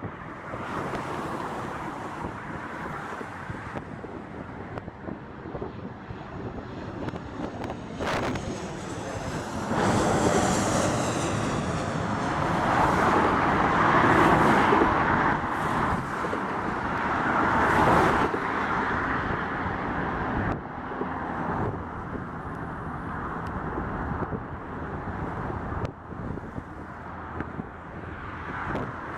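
Jet aircraft passing on the runway, its engine roar building, loudest about halfway through, then easing off.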